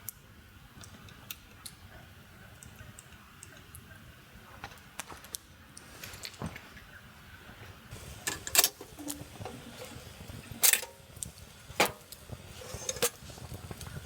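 A series of sharp clicks and knocks, a few of them louder about two-thirds of the way through, over a low steady rumble.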